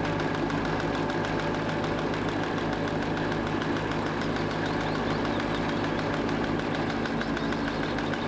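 Weed-cutting boat's engine running steadily with a fast, even chugging while the boat cuts river weed.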